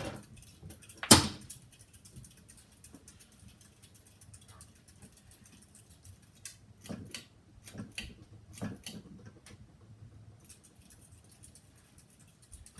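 A sharp click about a second in, as the Casablanca Alana ceiling fan is unplugged, then a few faint ticks and knocks while the fan coasts down in its spin-down.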